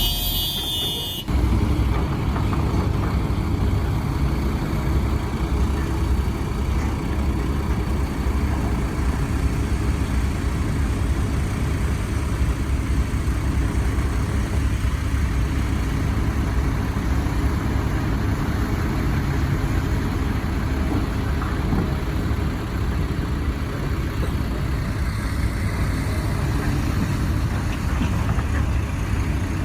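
Diesel engine of heavy earthmoving machinery (excavator or bulldozer) running steadily, with an abrupt change in the sound about a second in.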